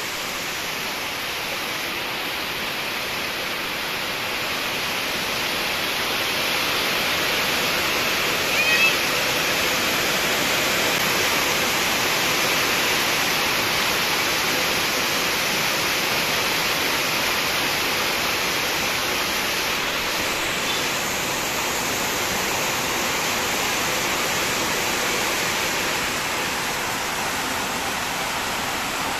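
Heavy rain pouring steadily onto corrugated metal roofs and a yard. About nine seconds in, one short high-pitched cry rises briefly over the rain.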